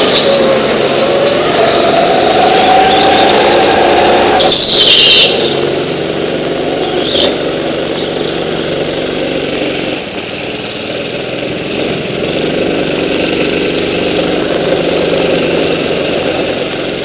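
Go-kart engine running under power and rising slightly in pitch, then a short, loud high screech about four and a half seconds in. After that the engine drops to a quieter, steadier running.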